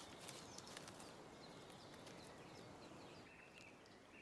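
Near silence: faint woodland ambience with scattered small ticks, and a faint high call near the end.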